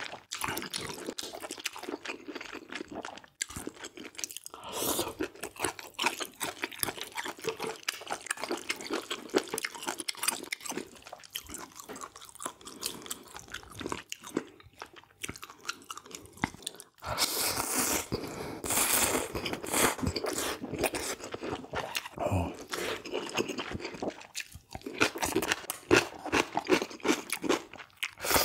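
Close-miked eating of squid jjamppong noodle soup: continuous chewing, a dense run of small wet clicks and crunches, with a few louder stretches of eating noise.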